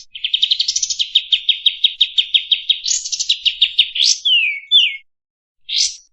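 Kapas tembak (a bulbul) singing: a fast run of repeated chirps, about eight to ten a second, for some four seconds, then two falling slurred notes, a short pause and one more chirp near the end.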